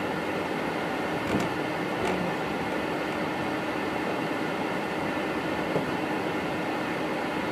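Boeing 777 flight-deck noise while taxiing: a steady rushing hum from the air conditioning and the engines at taxi idle, with a faint constant tone through it. There are a couple of light clicks about a second and a half and two seconds in.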